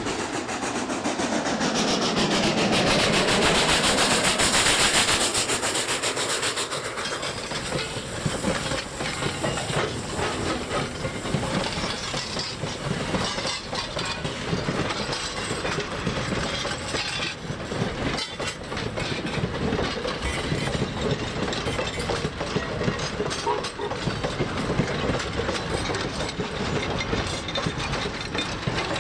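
A train passing close by: a loud hissing rush that peaks a few seconds in, then a long run of wheel clicks and clanks over the rail joints as the cars roll past.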